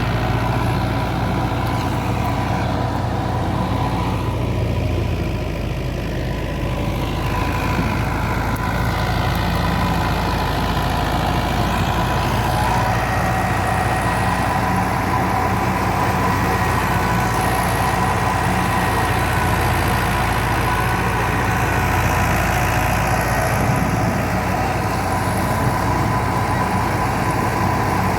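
Fiat 640 tractor's diesel engine running steadily while driving a wheat thresher, with a steady high whine over the engine.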